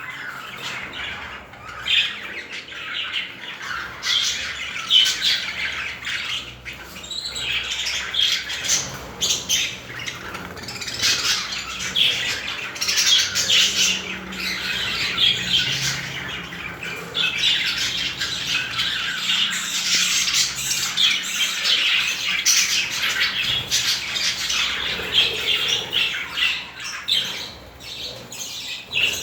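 Budgerigars chattering continuously, a dense stream of quick chirps, warbles and squawks.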